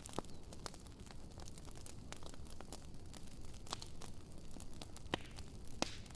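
Wood campfire burning, with a steady low rumble and irregular sharp crackles and pops from the burning logs.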